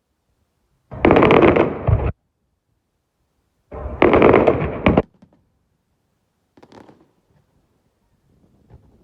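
Fireworks exploding: two loud, rapid volleys of crackling bangs about a second long each, both cutting off suddenly, followed by fainter crackles near the end.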